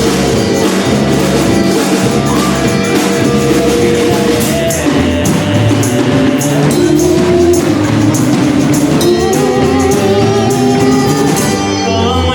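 A band playing live: electric guitar and drum kit, loud and continuous.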